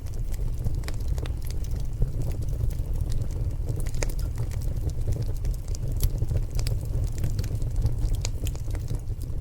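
Wood fire crackling in a stone fireplace: many irregular sharp pops and snaps from the burning logs over a steady low rumble.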